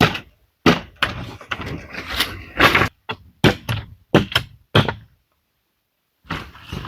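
Repeated sharp blows of a hand tool striking wood, a few a second, with a busier stretch of scraping and knocking in the first half. The sound cuts out completely for about a second near the end, then the blows resume.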